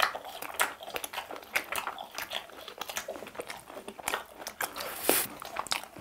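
Two people chewing crunchy fried chicken bites and cheese balls: a run of irregular crisp crunches and bites.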